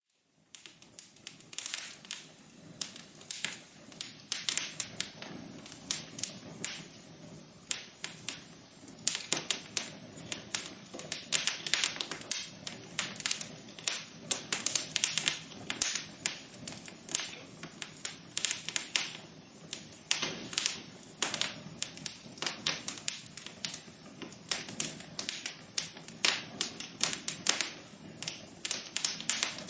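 Wood fire crackling in a fireplace: irregular sharp pops and snaps, several a second, over a steady low hiss of burning. It starts within the first second.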